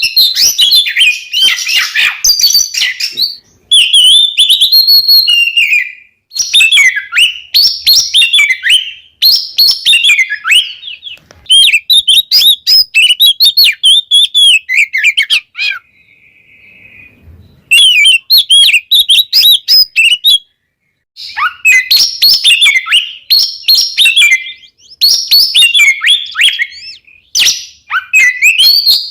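Oriental magpie-robin (kacer) singing loudly in long, varied phrases of quick whistles and chirps, with a short pause a little past halfway.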